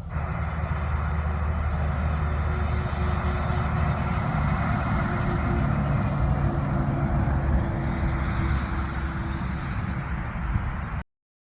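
Road traffic: a heavy truck's engine running with tyre noise, fairly even in level, cutting off abruptly near the end.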